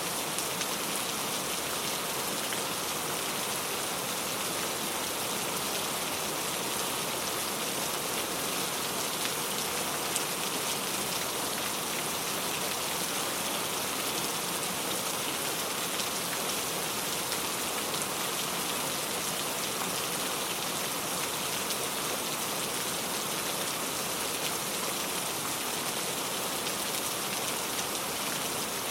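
Steady rain falling on a surface, an even hiss of many drops with no break or change.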